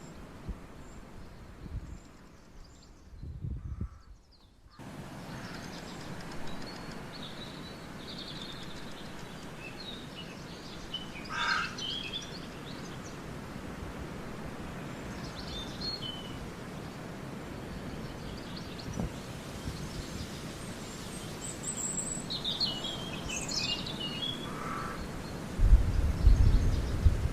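Outdoor nature ambience: a steady wash of background noise with songbirds chirping here and there, a few short calls about midway and a cluster near the end. Low rumbling gusts come in just before the end.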